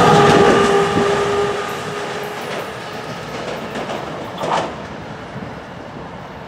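New Jersey Transit commuter train passing close by and pulling away. A steady whine sounds over the noise of the wheels on the rails as the tail of the train goes past, then fades out after about two seconds, and the whole sound dies away as the train recedes.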